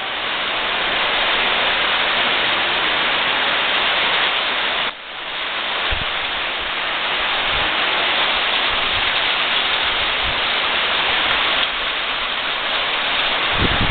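Heavy rain pouring down in a dense, steady hiss, with a short dip about five seconds in. Near the end, low gusts of strong wind buffet the microphone.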